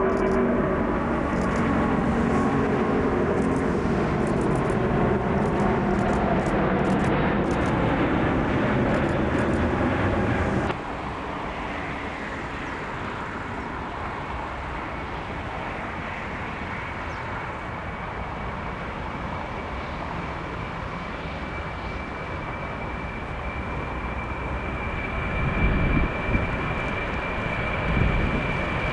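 Jet airliner engines running loud, with a few slowly falling tones, cut off abruptly about ten seconds in. Then a quieter steady engine noise with a thin high whine that grows stronger, and a few low thumps near the end.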